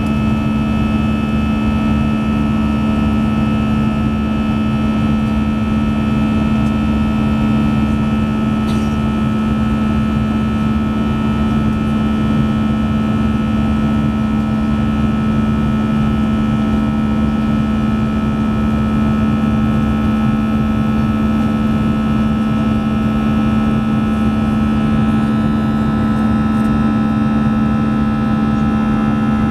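Steady cabin drone inside an Airbus A320 airliner in flight: jet engine noise and airflow with a strong, even hum.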